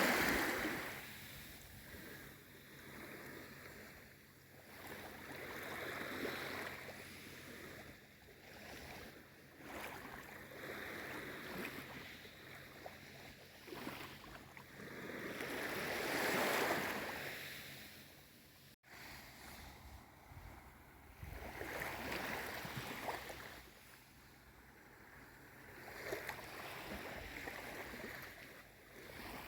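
Small sea waves washing in gently on a calm sea, the hiss swelling and falling back every few seconds, with the biggest wash a little past halfway. A split-second dropout in the sound follows it.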